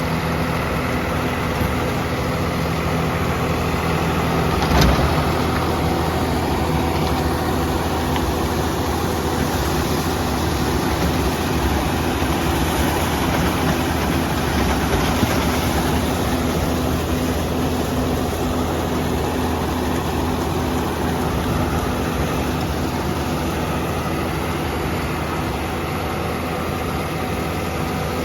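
Swaraj 969 FE tractor's diesel engine running at a steady speed, with a single sharp knock about five seconds in.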